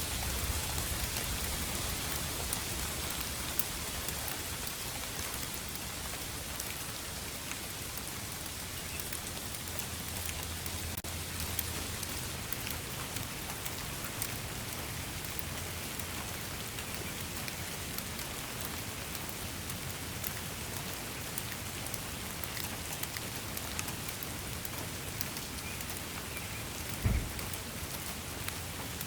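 Steady rain falling, with many individual drops striking close by over the even hiss, and a low rumble underneath at times. A single dull thump about 27 seconds in is the loudest moment.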